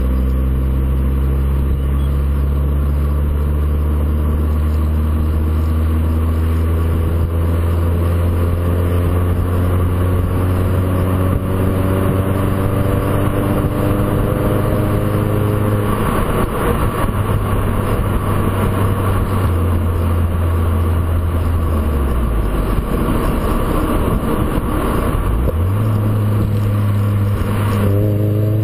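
Volkswagen Golf IV engine heard through a stainless-steel JOM rear silencer. For about 16 seconds the pitch climbs slowly and steadily, as under gentle acceleration. Then the note turns rougher, drops to a lower pitch a few seconds later, and steps back up to a steady tone near the end.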